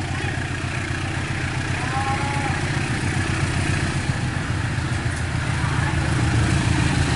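Diesel locomotive engine running with a steady, fast-pulsing low rumble that grows gradually louder.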